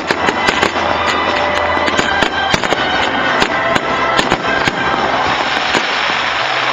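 Aerial fireworks bursting in quick, overlapping succession: many sharp bangs and crackles, with music playing underneath.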